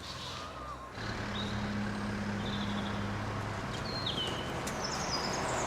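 Traffic noise: a motor vehicle's engine running and then passing, with a few short high chirps like birds over it.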